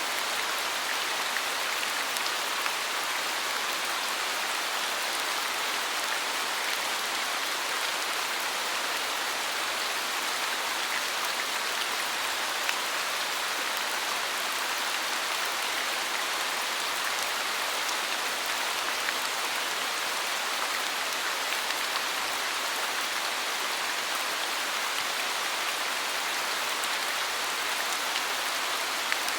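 Steady rain falling, an even hiss of many drops with faint individual drop ticks scattered through it.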